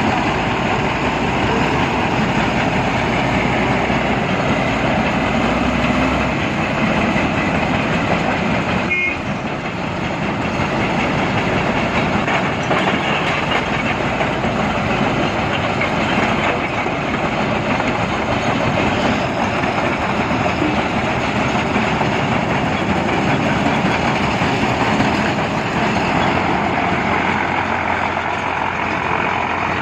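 Heavy construction machinery running steadily: a loud, continuous mechanical noise with a short dip about nine seconds in.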